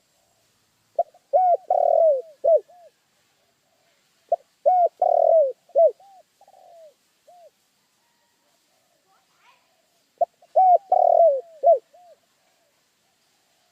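Spotted dove (tekukur) cooing: three phrases of several quick, arched coo notes, each phrase lasting about two seconds with a few seconds of silence between them.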